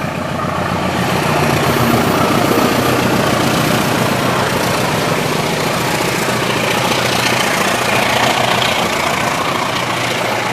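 Train running past, with a steady diesel engine drone and rolling noise.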